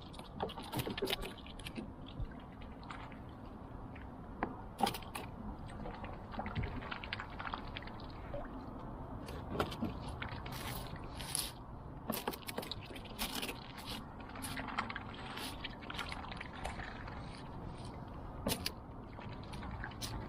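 A swan's bill snapping and dabbling at food in the water, making irregular sharp clicks and small splashes.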